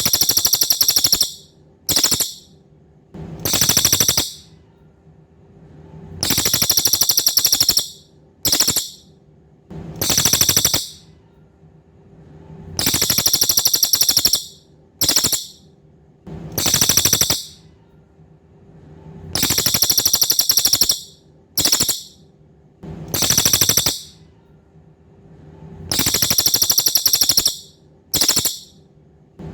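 Cililin songbird singing a high, rapid, buzzy trill in a repeating pattern: a long trill, a short burst, then a second trill, the set recurring about every six and a half seconds.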